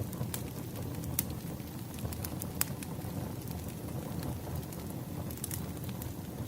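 Wood campfire burning with a steady low rush and scattered sharp crackles and pops from the logs.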